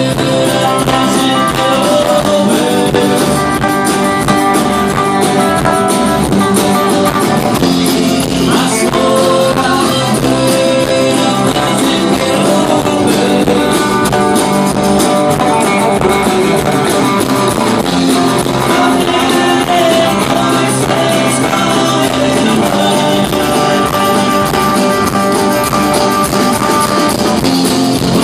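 Live band music: guitars and other instruments playing an instrumental passage of a rock-country song.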